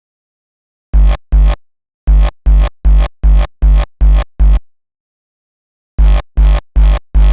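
Distorted raw hardstyle kick drum, synthesised in Ableton Live, playing alone at about 150 BPM. Two hits about a second in, a run of seven, a pause, then the kicks start again near the end. Each kick has a heavy sub-bass punch and a distorted, pitched body.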